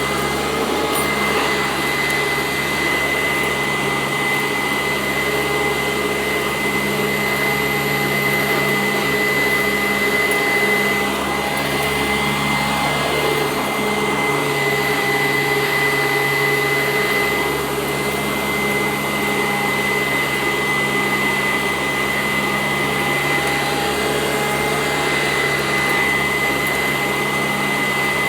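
Sanitaire SC886 commercial upright vacuum running steadily over carpet: a constant high motor whine over the rush of air.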